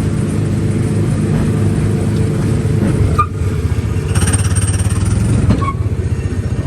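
The small engine of a ride car running steadily with a fast, even chug. There is a brief dip about three seconds in, and a thin high whine comes in soon after.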